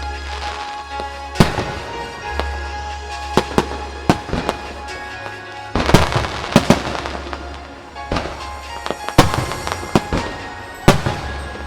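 Aerial firework shells bursting in a series of sharp bangs, with a dense stretch of crackling about halfway through, over background music.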